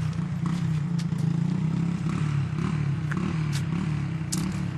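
A steady low engine hum with a few sharp clicks over it.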